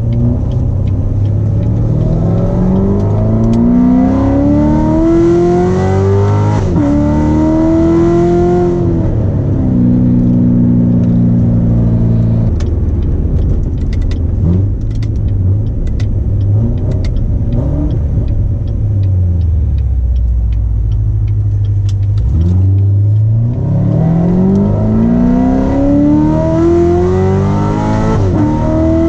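Corvette C7 Z06's supercharged V8 with long-tube headers, pulled hard: the engine note climbs steeply through the revs, drops at a shift about seven seconds in and climbs again, then settles to a steady lower drone before a second hard pull with another shift near the end.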